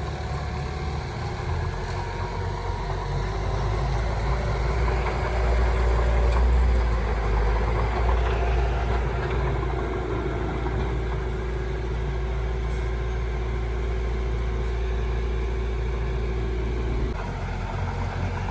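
Heavy diesel engine of earthmoving machinery running steadily, growing louder for a few seconds about five seconds in, then settling back, with a sudden change in the low engine note near the end.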